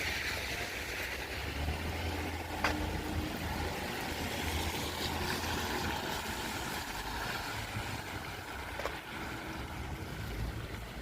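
Wet, windy street ambience: a steady hiss of rain and wet traffic over a low rumble of wind, with a few sharp ticks.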